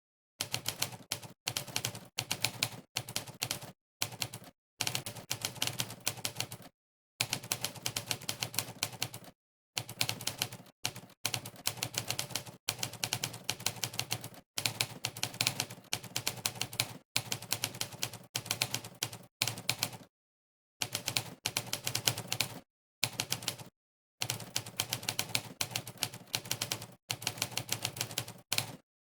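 Typewriter keystroke sound effect from the Monkeytype typing site, one sampled typewriter clack per key press. It plays in fast, uneven runs of many clacks a second, broken by brief pauses of dead silence.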